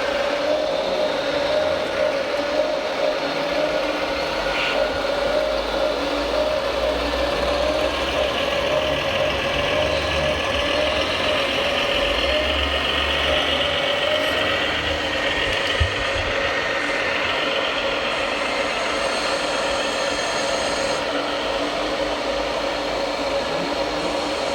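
Radio-controlled model trucks and construction machines running, with a steady whine from their motors and gearing and a second, higher whine from about eight seconds in.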